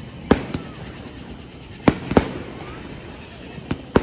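Aerial fireworks bursting: a series of sharp bangs at uneven intervals, about six in four seconds, some following close on one another in pairs.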